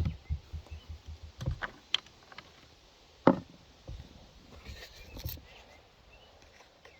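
Handling noises of an oil bottle and a chainsaw being readied for filling the bar-and-chain oil tank: scattered clicks and knocks, the sharpest about three seconds in, after a low rumble that dies away in the first second and a half.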